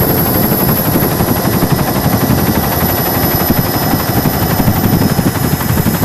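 Helicopter running in flight: a loud, steady, fast rotor chop with engine noise.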